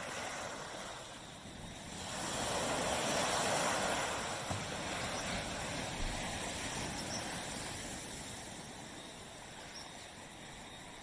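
Small waves breaking and washing up a beach: a surge builds about two seconds in and slowly drains away, and the next wave begins near the end.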